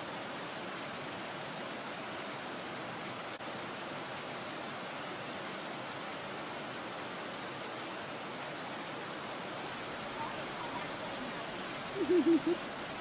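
Steady hissing background noise with no distinct events. Near the end comes a brief loud voice-like sound of a few quick pulses.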